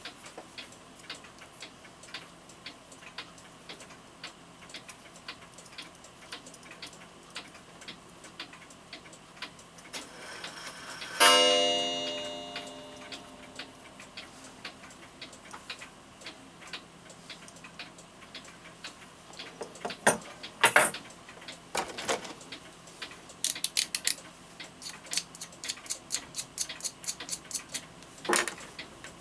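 Florenz Kroeber mantel clock ticking steadily, with a single ringing strike about eleven seconds in that dies away over a couple of seconds. Louder clicks and knocks come in a run toward the end.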